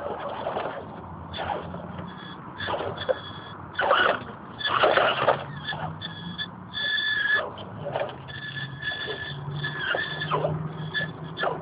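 Axial Honcho RC crawler's 1380 kV brushless outrunner motor running, a high electric whine with a lower hum that shifts in pitch as the throttle changes. Irregular clattering knocks come through now and then.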